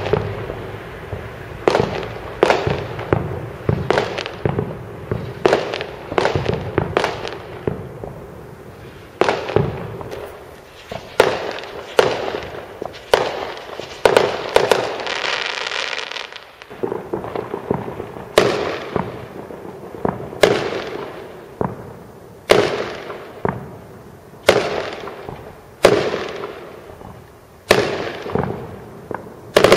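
Firework shells from a large display about two miles off going bang one after another, roughly every second or two, each bang trailing off in echo. About halfway through there is a steady rushing hiss for a couple of seconds.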